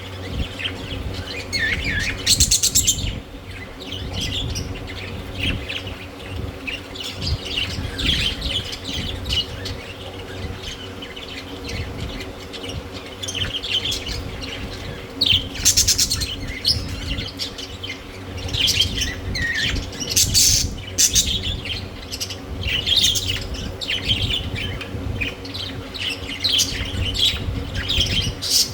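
Budgerigars chirping and chattering continuously, with several louder harsh squawks scattered through, over a steady low hum.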